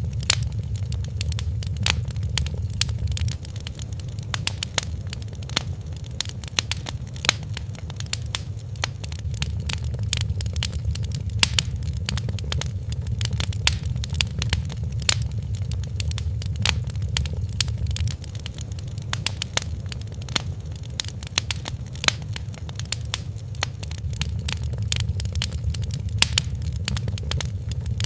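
Fire crackling in a fireplace: a dense run of sharp pops and crackles over a steady low rumble.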